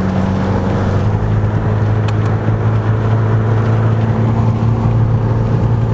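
Car engine and tyre noise heard inside the cabin while driving, a steady low drone with a constant hum.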